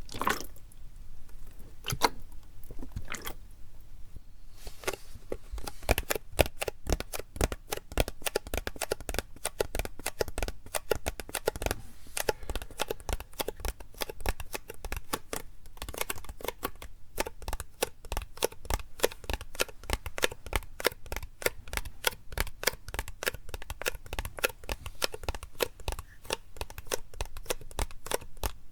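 Plastic PET bottle being tapped, in sharp clicks: a few spaced taps at first, then fast, continuous tapping from about six seconds in.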